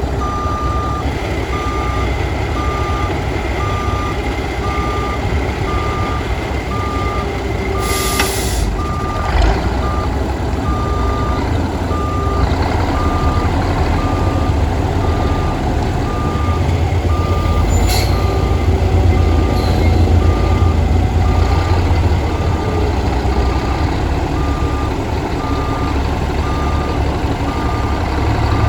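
1988 Western Star semi tractor's diesel engine running, a steady low rumble that swells a little past the middle, with a back-up alarm beeping steadily at about three beeps every two seconds. A short hiss of released air about eight seconds in.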